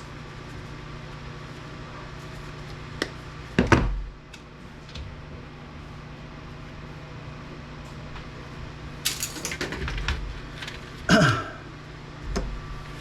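Scattered knocks, clicks and clatters of salvaged electronic parts being handled and dropped while stripping a UPS backup unit for scrap, over a steady low hum. The loudest knocks come a little under four seconds in and about eleven seconds in.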